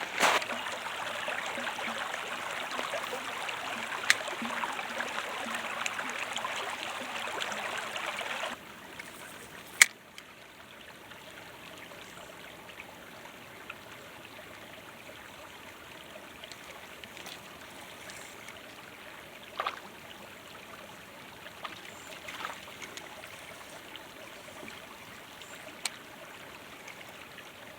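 Creek water running over rocks in a steady rush, which drops suddenly to a softer flow about eight and a half seconds in. A single sharp click near ten seconds.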